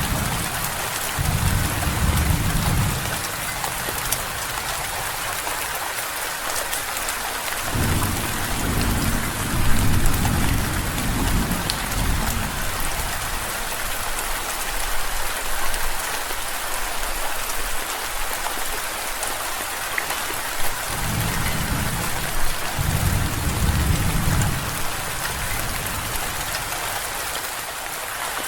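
Steady rain with three low, rolling rumbles of thunder, each lasting a few seconds: one right at the start, one about eight seconds in and one about twenty-one seconds in.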